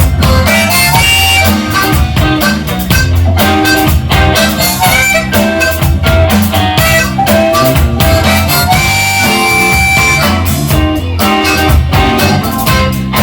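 Blues band playing an instrumental passage: a harmonica lead with long held notes over guitar, bass and a steady drum beat.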